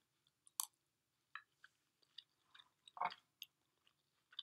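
Faint close-up chewing of a mouthful of firm, cooked rolled-spelt hot cereal: small scattered wet mouth clicks, with one louder mouth sound about three seconds in.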